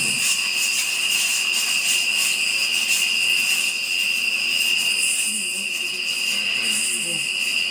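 Night insects trilling: one steady, unbroken high-pitched trill with a fainter shimmering chorus above it.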